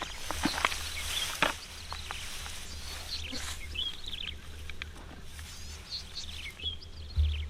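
Small birds chirping in short, scattered sliding notes, over a steady low rumble and a few sharp clicks.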